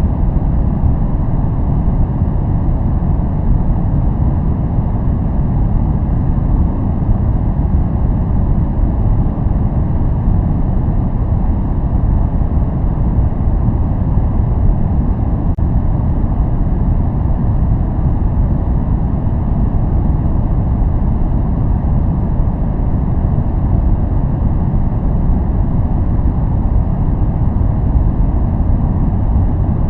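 Continuous, unchanging noise track sold as white noise. Its energy lies mostly in the low range, so it sounds like a steady deep hiss or rumble rather than a bright hiss.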